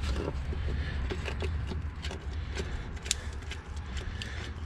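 Hand work at a chassis grease zerk during a grease job: light, irregular clicks and taps of the grease gun and fitting, over a steady low hum.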